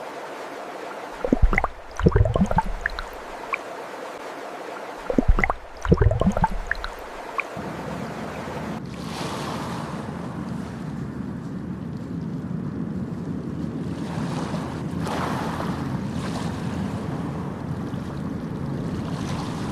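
Steady flowing water, broken twice by loud clusters of short sharp sounds; about seven seconds in it gives way to ocean surf, with waves washing in and swelling several times.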